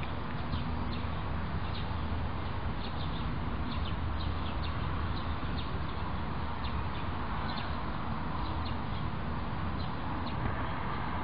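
Outdoor ambience of scattered short bird chirps over a steady low hum and hiss.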